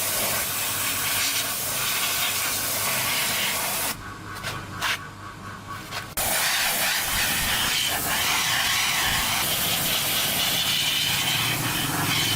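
Steady loud hissing, like air or spray under pressure, that stops for about two seconds midway and then starts again.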